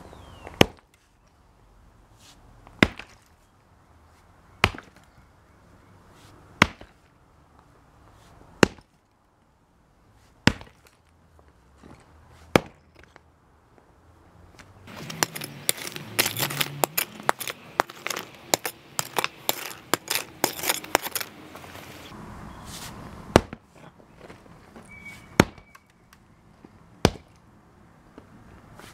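Sledgehammer blows on a concrete slab to crack and break it up, one sharp strike about every two seconds. About halfway through comes some seven seconds of dense rattling and scraping of broken concrete, then three more strikes.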